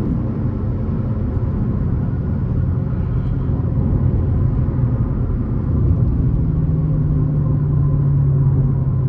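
Dodge Challenger R/T's HEMI V8 cruising, a steady low engine and exhaust drone with road noise, swelling a little about six seconds in.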